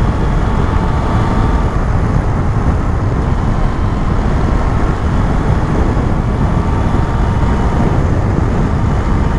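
Motorcycle riding at a steady speed: engine running with heavy wind and road noise, unchanging throughout.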